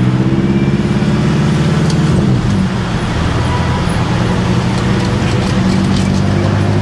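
BMW M5 F10 twin-turbo V8 running under load, heard from inside the car. Its note climbs gently, dips about two and a half seconds in, then settles into a steady drone.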